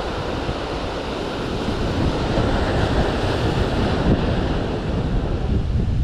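Strong gusty wind buffeting the microphone over the steady wash of sea surf breaking on the shore.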